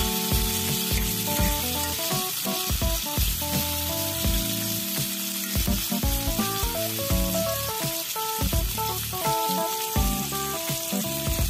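Green beans, onion and garlic sizzling in hot oil in a wok as a spatula stirs and turns them, over background music.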